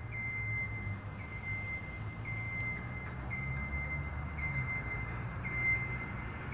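A machine's low, steady hum with a thin high whine that swells faintly about once a second.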